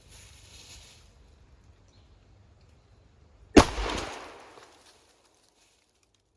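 A single shotgun shot fired with a target-load shell about three and a half seconds in, its report dying away over about a second and a half.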